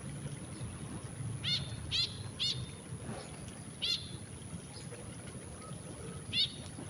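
White-breasted woodswallow (kekep babi) giving short, sharp calls, five in all at irregular spacing.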